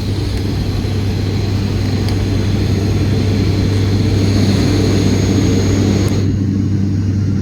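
Airliner cabin noise in climb: a steady drone of engines and airflow with a strong low hum. About six seconds in, the higher hiss drops away, leaving mostly the low rumble.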